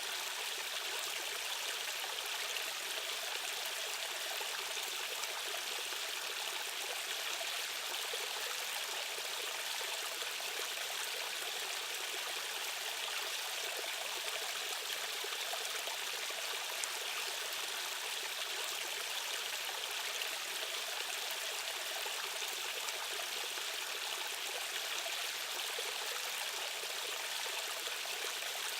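Rushing stream water flowing steadily and unbroken, a light hissing rush with little deep rumble.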